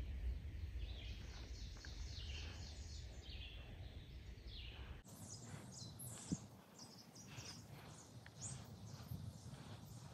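Faint outdoor ambience with small birds chirping and calling in the background. A low rumble drops out suddenly about five seconds in, and there is one brief click soon after.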